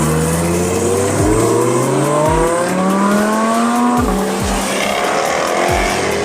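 A sports car's engine accelerating hard, its pitch climbing and dropping back at each gear change, several times in a row. Background music with a booming bass beat plays under it.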